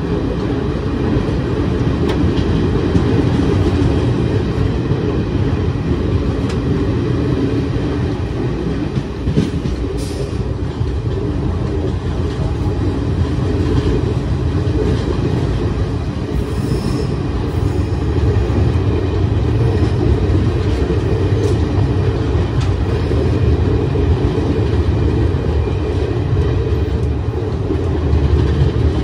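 Express passenger train running at speed, heard from an open coach doorway: a loud, steady rumble of wheels on the track. There is a sharp click about ten seconds in and a brief high squeal a little past halfway. The rumble grows heavier near the end as the train runs onto a river bridge.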